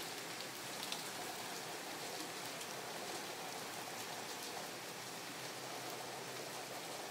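Heavy rain falling steadily, a hiss of noise with faint scattered drop ticks.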